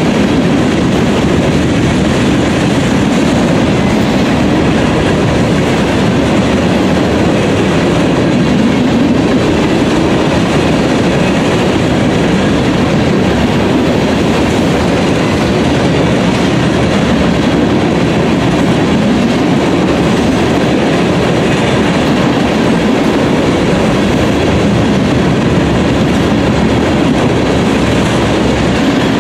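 Empty railroad tank cars of a freight train rolling past close by: steel wheels running on the rails in a steady, loud, unbroken noise.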